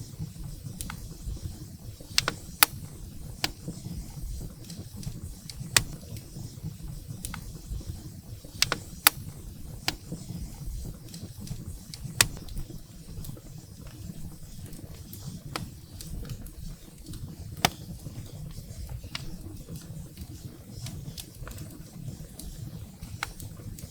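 Wood fire burning in a fireplace: a steady low rumble of the flames with irregular sharp crackles and pops from the firewood, a few of them much louder than the rest.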